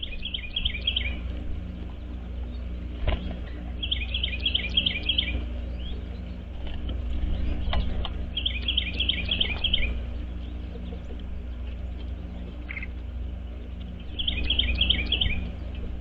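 A songbird singing the same short, quick phrase of repeated two-part notes four times, about every four seconds, over a steady low rumble.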